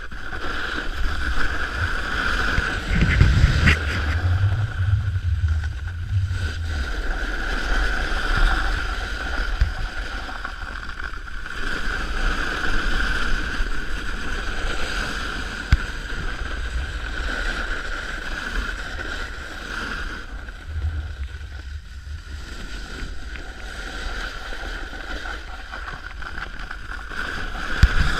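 Snowboard sliding and scraping over hard, icy snow in a steady hiss, with wind buffeting the microphone in low rumbles a few seconds in and again about two-thirds of the way through.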